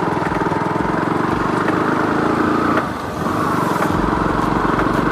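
Motorcycle engine running under load as it is ridden over a rough, muddy road, easing off briefly about three seconds in before carrying on steadily.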